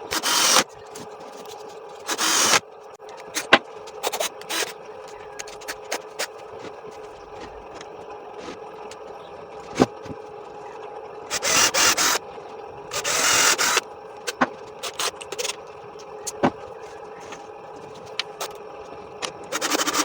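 Workshop assembly noises: scattered clicks and knocks, with five short, loud scraping bursts of about half a second to a second each, over a steady background hum.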